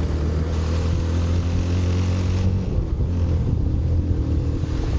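Bajaj Pulsar 220 motorcycle's single-cylinder engine running at a steady cruising speed, with wind rushing over the camera microphone.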